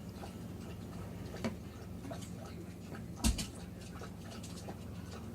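Quiet room hum with a few faint clicks and taps, the loudest about three seconds in.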